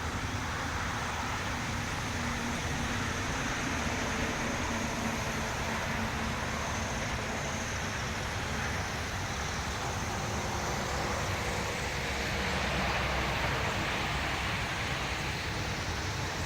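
Steady road traffic noise from passing vehicles, swelling a little about three-quarters of the way through.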